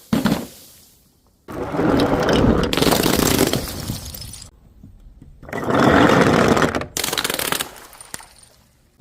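Glass bottles smashing several times in a row: each sudden crash of shattering glass rings on with shards scattering, then fades or cuts off abruptly before the next.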